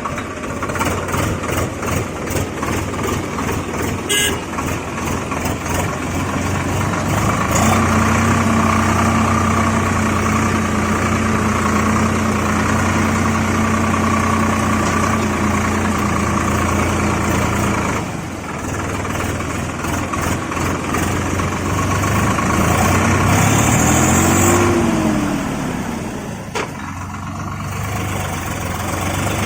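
Vehicle engine running steadily. A held horn-like tone starts about a quarter of the way in and stops a little past the middle, and a short tone rises and falls near the end.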